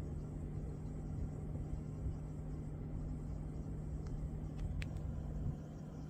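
A 2021 Toyota Camry's air-conditioning system running, with the squealing/hissing noise under complaint: a steady low hum and rumble, and a few brief, faint squeaks about four to five seconds in.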